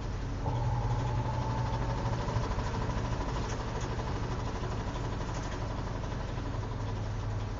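Washing machine motor running with a steady low hum and a thin whine that comes in about half a second in and fades out later on.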